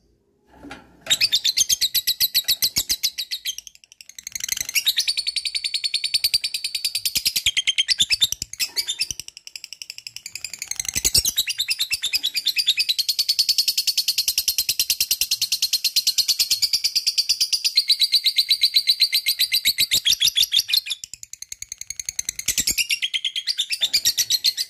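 Lovebird giving its long 'ngekek' chatter: fast, evenly repeated high notes strung into long unbroken runs, the longest lasting close to ten seconds, with a few short breaks between runs.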